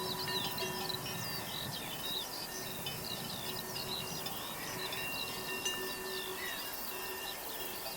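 Many small birds chirping and twittering over soft, sustained chime-like tones of an ambient music track.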